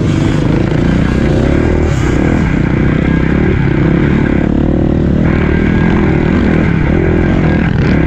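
Dirt bike engine revving up and down as it rides, its pitch rising and falling over and over.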